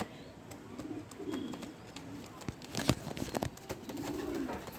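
Domestic racing pigeons cooing, low rolling coos about a second in and again near the end, with a few sharp clicks in the middle.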